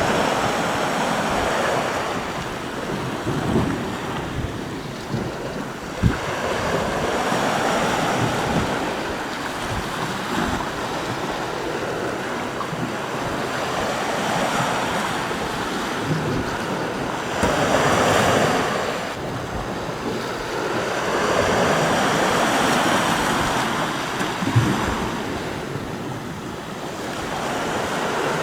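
Sea waves washing onto the shore, swelling and fading every few seconds, with wind buffeting the microphone in a few short low thumps.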